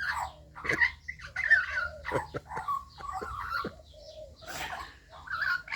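Young Australian magpie babbling: a run of short, varied warbling and chattering calls, with a few sharp clicks among them.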